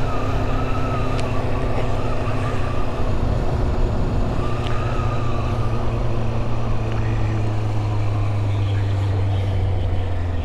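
Motorcycle engine running at a steady speed under way, with a faint wavering whistle above the engine note.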